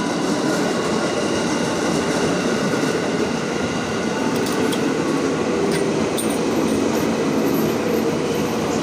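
KRL Commuter Line electric commuter train running on the rails: a steady, loud rumble of wheels and motors, with a few faint clicks and brief squeals.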